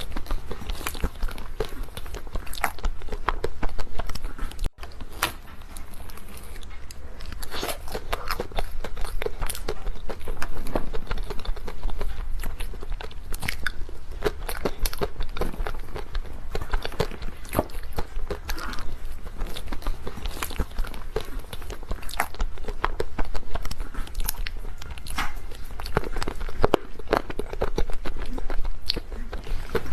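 Close-miked eating sounds of a person biting and chewing dessert, with many short, sharp clicks from the mouth and food.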